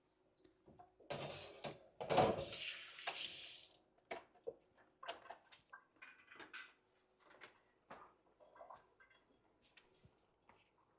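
Water running in short rushes for a couple of seconds, followed by a string of light knocks and clinks of pots and utensils.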